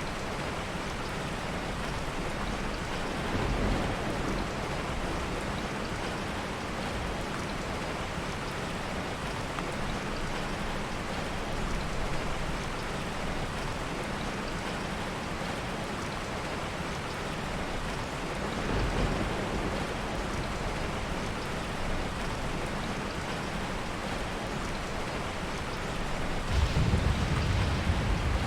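Steady heavy rain with soft rolls of distant thunder: low rumbles swell about three seconds in and again midway, with the strongest near the end.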